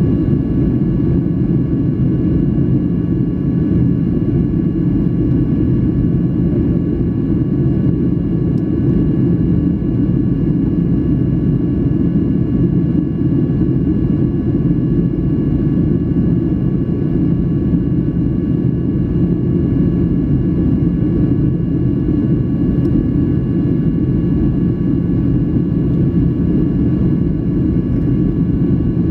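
Cabin noise of a Boeing 737-800 in flight: a steady, loud rumble of engine and airflow noise, with a few faint steady whining tones above it.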